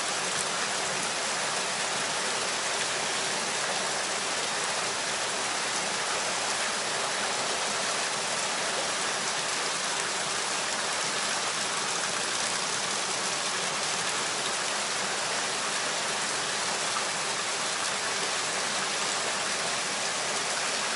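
Steady rain falling on the surface of the water, an even, unbroken hiss.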